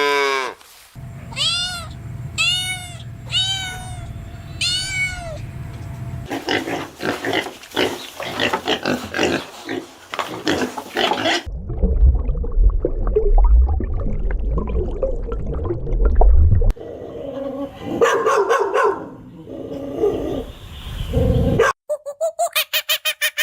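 Animal calls in quick succession, each clip cut off abruptly: four short meows from a cat, then several other animal sounds.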